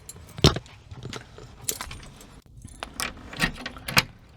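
A bunch of keys jangling, with a string of sharp metallic clicks and knocks spread through the few seconds.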